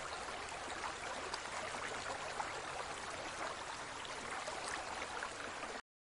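Aquarium water trickling and bubbling, a steady faint hiss with a fine crackle of small ticks. It cuts off abruptly near the end.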